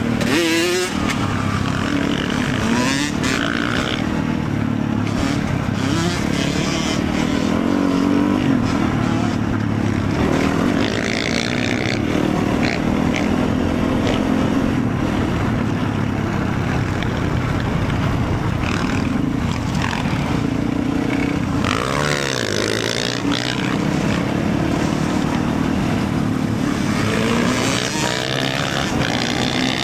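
Motorcycle engine running during a ride, its pitch rising and falling several times with the throttle.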